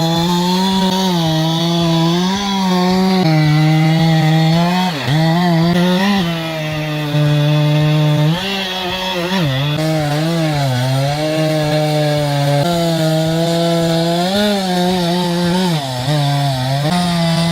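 Chainsaw engine running hard while cutting wood. Its pitch repeatedly sags as it bogs down under load in the cut, then picks back up.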